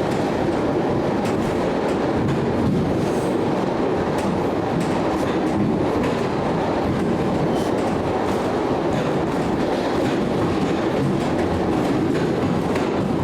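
Train running along the track: a steady rumble of wheels on rails with clicking over the rail joints.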